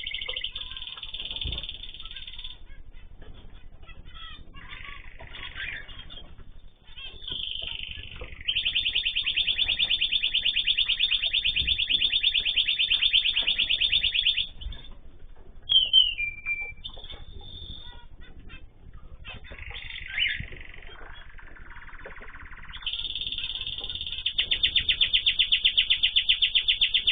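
Small cage birds singing and calling. Two long, rapid, even trills run several seconds each, with short chirps and a sliding whistle between them.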